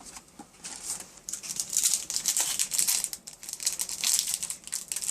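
Crinkling and rustling of a trading-card pack wrapper being handled and opened, a dense crackle that starts under a second in.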